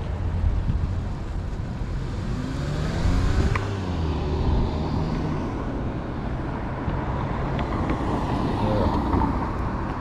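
Wind buffeting the microphone in a steady low rumble while riding on the road, with traffic noise. A motor vehicle passes between about two and five seconds in, its engine tone rising and then falling.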